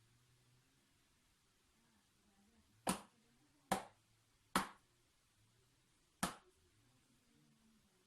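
Four short, sharp clicks: one about three seconds in, two more under a second apart each, then a last one near six seconds.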